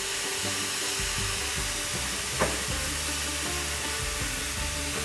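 Noodles frying on a hot Blackstone flat-top griddle: a steady sizzle, with sauce squirted onto them. One sharp click about two and a half seconds in.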